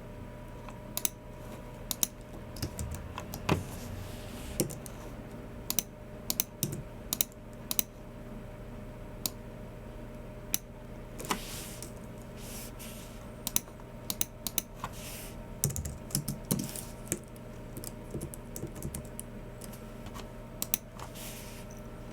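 Typing on a Logitech MX Keys Mini low-profile keyboard: irregular key taps, singly and in short runs with pauses between, mixed with occasional mouse clicks.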